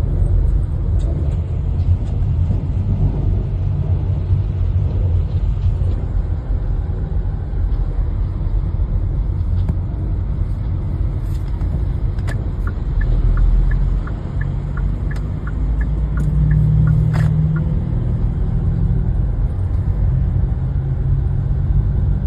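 Steady road and engine rumble of a car driving at speed, heard from inside the cabin through a dashcam. About halfway through comes a run of short high beeps, a few a second, and a little later a sharp knock.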